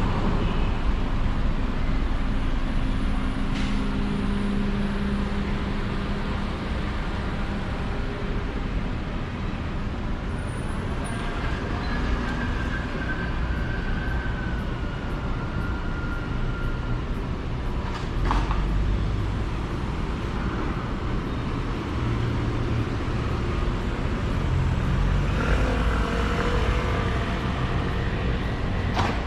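Street traffic: cars and buses passing on the road, a steady hum of engines and tyres, with a short whine partway through and a couple of sharp clicks.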